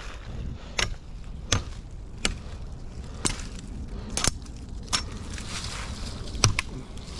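Dry sticks being snapped by hand for fire kindling: a string of sharp, separate cracks at irregular intervals, about one a second, over a low steady rumble of moving water or wind.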